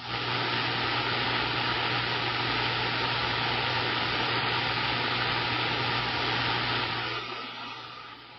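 CB radio receiver static: a steady hiss with a low hum from the radio's speaker between transmissions, dropping to a quieter hiss about seven seconds in.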